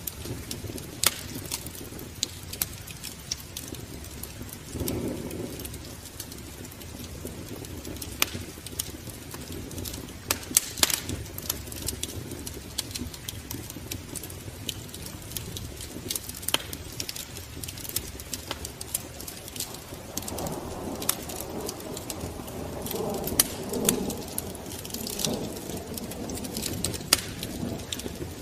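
Wood fire in a fireplace crackling, with irregular sharp pops and snaps over a low steady rush.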